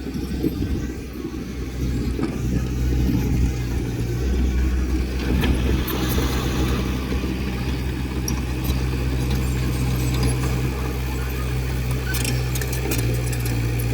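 Diesel engine of heavy earthmoving machinery running steadily under load. Its low note shifts slightly about four seconds in and again near the end, where a few sharp metallic clicks sound.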